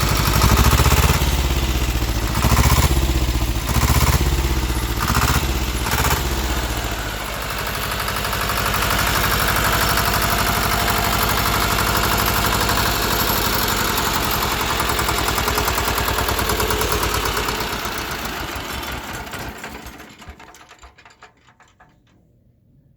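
Deutz F2L511 two-cylinder air-cooled diesel engine running, with several surges in loudness over the first seven seconds, then running steadily. About eighteen seconds in it is shut down and winds to a stop within a few seconds.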